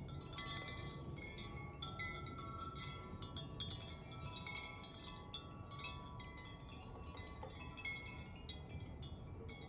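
Wind chimes jangling continuously in gusty wind, many metal tones struck irregularly and ringing over one another, over a low steady rush of wind.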